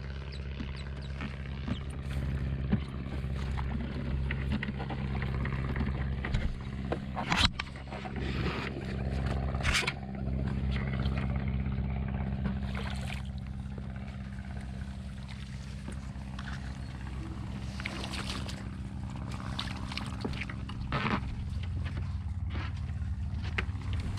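Longtail mud motor engine running steadily, driving an 8-inch hurricane prop through thick grass. Water and vegetation splash and swish in short rushes several times, the loudest about 7 and 10 seconds in.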